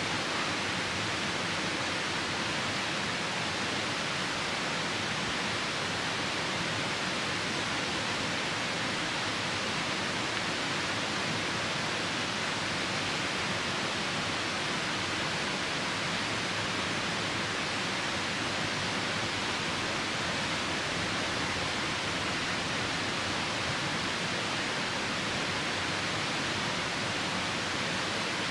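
Steady rushing of a nearby river mixed with falling rain, an even noise with no break or change.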